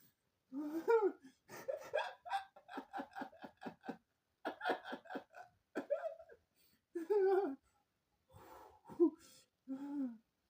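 A person laughing hard in several fits, with a quick run of short, even laugh pulses about two seconds in.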